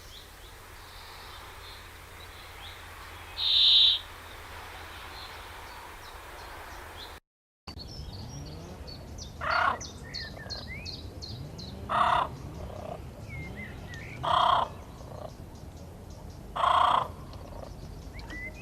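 Birds calling: one short high call a few seconds in, then, after a sudden cut, a louder call repeated about every two and a half seconds with faint high chirps between the calls.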